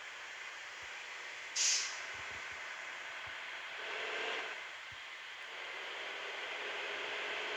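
Bus engine idling steadily during its warm-up, with a short, sharp hiss of released air about a second and a half in.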